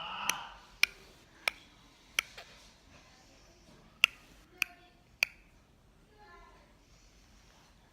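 Seven sharp clicks, spaced irregularly over about five seconds, with a faint baby's coo about six seconds in.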